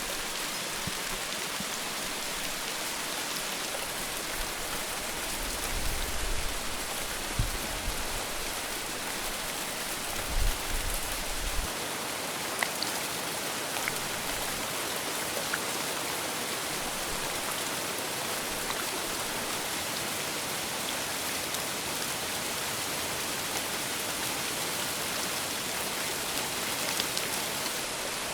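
Steady heavy rain, a dense even hiss of falling drops. There are brief low rumbles about six and ten seconds in.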